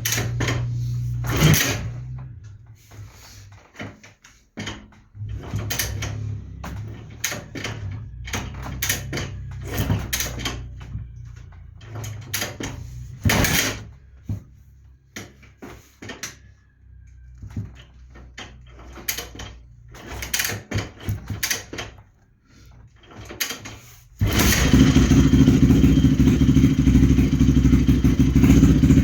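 Motorcycle being kick-started: a long run of irregular clunks and clatters from the kick-starter, then about 24 s in the engine catches and runs steadily.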